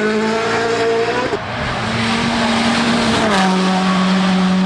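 Rally1 car's turbocharged four-cylinder engine at high revs. The pitch climbs, then breaks off sharply about a second and a half in, giving way to a rush of noise, before a steady engine note returns for the last second or so.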